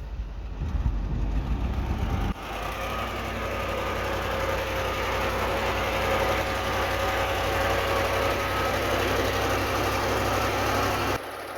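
Heavy diesel earthmoving machinery running: a low, knocking engine rumble that changes abruptly about two seconds in to a steady engine drone with a level whine over it, then changes abruptly again near the end.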